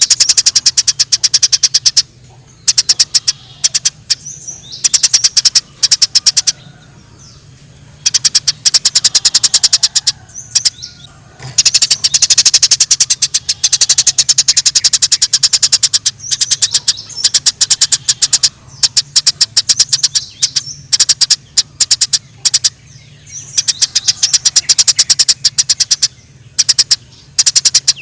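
Eurasian tree sparrows giving the rapid, chattering chirps of fighting birds, many chirps a second in bursts of a second to several seconds with short gaps between. A faint low hum runs underneath.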